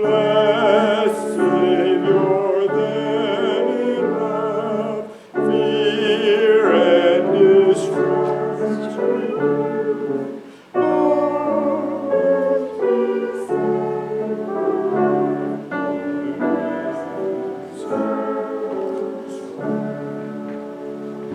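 Voices singing a hymn to piano accompaniment, in sung phrases with brief breaks about five and eleven seconds in.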